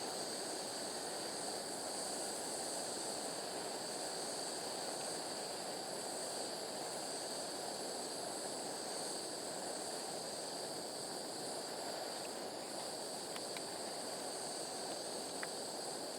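Steady woodland ambience: a constant rushing hiss with insects chirring in high, unchanging tones.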